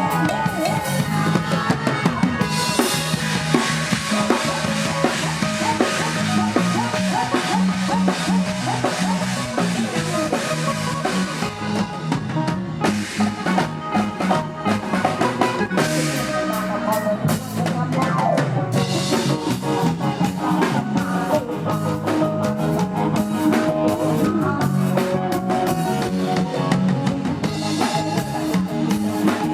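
Live Isan band music, led by a drum kit with kick, snare and rimshots under a steady beat, without singing.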